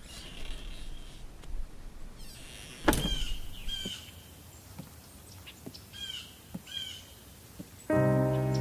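Outdoor ambience with a bird giving short curved chirps, repeated several times. There is one sharp knock about three seconds in, and music starts near the end.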